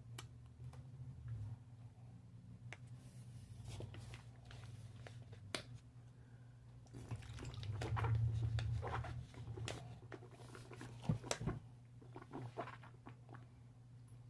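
A person chewing close to the microphone, a mix of chunks and powder: wet crunching, squishing and small clicks of the mouth, busiest and loudest about halfway through. A steady low hum sits underneath.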